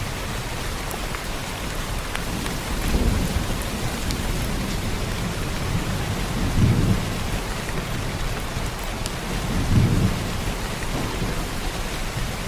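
Heavy rain falling steadily, with three low rumbles of thunder swelling and fading about three, seven and ten seconds in.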